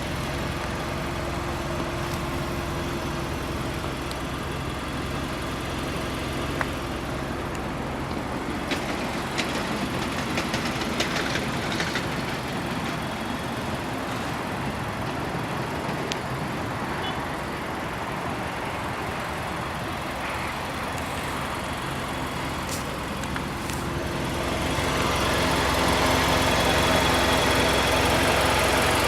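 Nissan Juke Nismo's 1.6-litre inline-four engine idling steadily, growing louder near the end.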